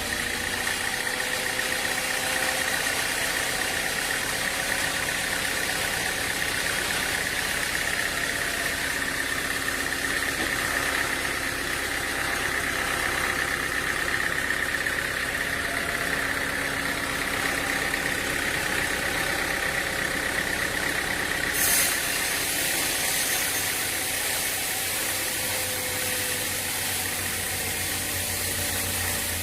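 Sawmill machinery running steadily: an engine with a high, even whine, and one sharp click about twenty-two seconds in.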